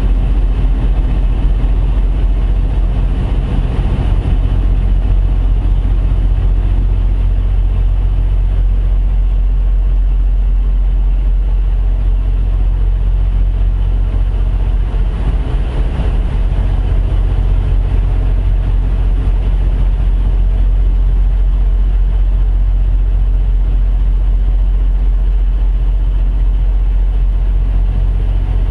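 Heavy diesel truck engine idling steadily, a deep even hum with no revving.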